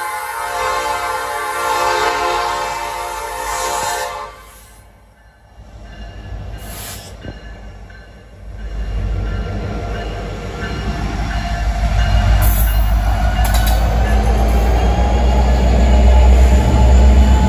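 Freight diesel locomotive's air horn sounding a steady chord that cuts off about four seconds in. From about halfway the lead diesel locomotives pass close by, their engines and wheels making a heavy low rumble that grows louder toward the end.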